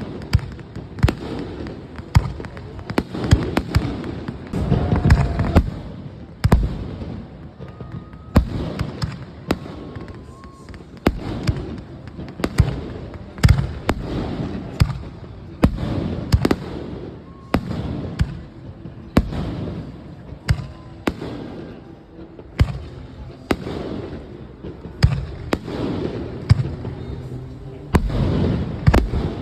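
Aerial fireworks display: a steady run of sharp bangs and deeper booming bursts, roughly one a second at irregular intervals, each trailing off in a low rumble.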